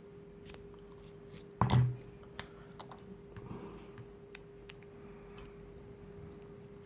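One sharp snip of cutters about one and a half seconds in, cutting a piece to length, followed by small clicks and taps of parts being handled. A faint steady hum runs underneath.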